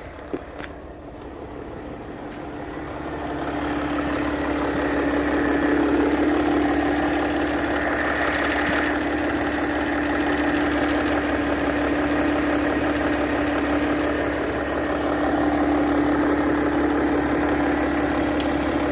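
Mercedes-Benz ML320 V6 diesel engine idling steadily while warming up after a three-day cold start. It grows louder over the first few seconds and then holds an even note.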